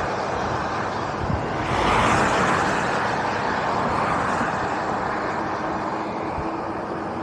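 Steady freeway traffic and road noise, swelling louder about two seconds in and easing off slowly afterwards.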